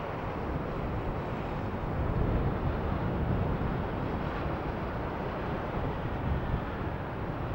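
Jet airliner engines rumbling steadily as the aircraft passes, swelling a little about two seconds in, with wind buffeting the microphone.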